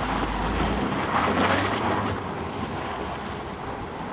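VW Tiguan's engine running steadily under load as the SUV slides across packed snow, with wind noise on the microphone; the noise swells briefly about a second in.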